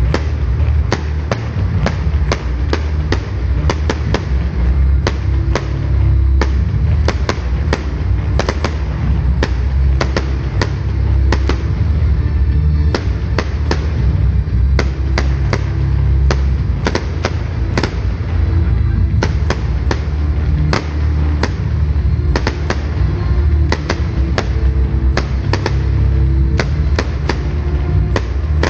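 Fireworks going off in quick succession, many sharp bangs and cracks a few to several per second, over loud music with a heavy bass.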